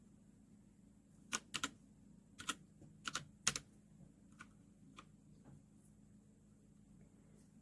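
Separate keystrokes on a MageGee 75% mechanical keyboard with red linear switches: about a dozen irregular presses, most of them between one and five seconds in.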